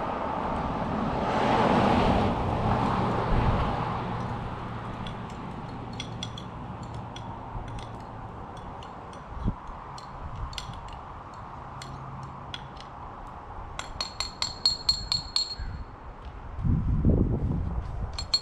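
A passing car's rush rises and fades in the first few seconds. Then comes a run of sharp metallic clinks and taps from a spoon against a metal pan, with one stretch ringing on briefly about fourteen seconds in.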